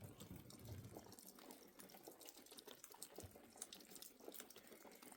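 Near silence: a faint hiss with small scattered ticks and clicks.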